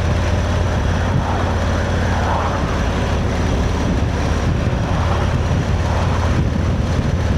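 Motorcycle running steadily on the road: a continuous low engine drone under an even rush of wind and road noise.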